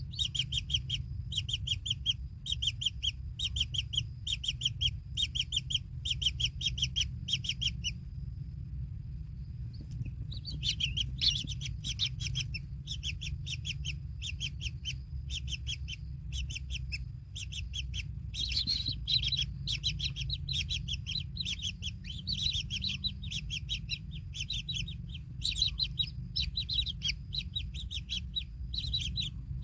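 Kingfisher chicks' begging calls: short, buzzy chirps repeated about twice a second, with a pause of about two seconds near a third of the way in. A steady low rumble runs underneath.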